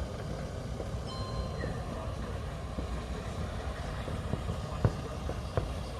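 Distant fireworks going off over a steady low rumble, with two sharp bangs near the end.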